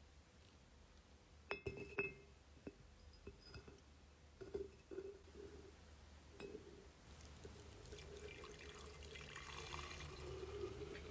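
A few faint, sharp clinks and taps of small hard objects being handled, with a soft hissing rustle building in the last few seconds.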